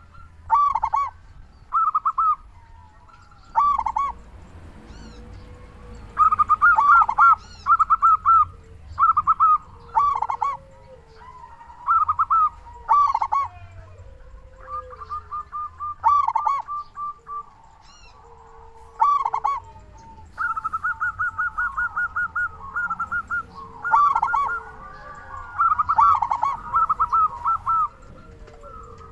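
Zebra doves (perkutut) calling over and over: short bursts of rapid, stuttering cooing notes with pauses between them, and longer runs of quick notes in the second half. Fainter lower, gliding calls sound underneath.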